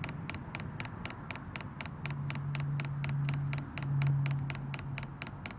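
Diesel heater fuel dosing pump ticking rapidly and evenly, about four to five clicks a second, as it runs its priming cycle to push fuel through the line. A low steady hum joins about two seconds in, breaks briefly, and is the loudest thing near the end.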